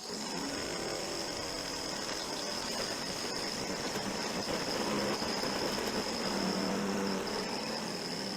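A small electric power tool running steadily, a noisy whir with a thin high-pitched whine over it.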